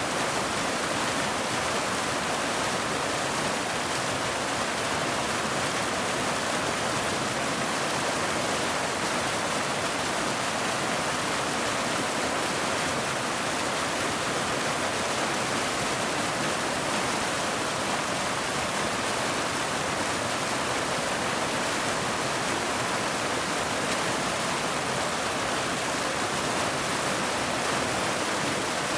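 Steady, dense rain hiss with no single drops standing out and no change in level.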